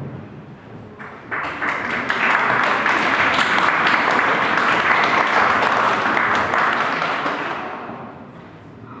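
Audience applauding after a performer is announced. The clapping starts about a second in, holds steady, then dies away near the end.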